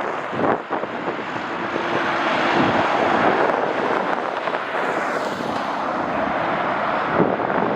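Jet airliner engines rushing steadily, swelling about two seconds in, with gusts of wind buffeting the microphone.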